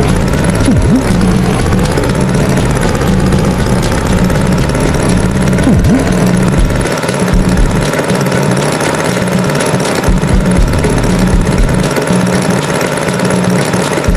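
Cartoon tractor engine sound effect running steadily, a low pulsing chug with a regular beat. Two brief little pitch glides sound over it, one about a second in and one around six seconds in.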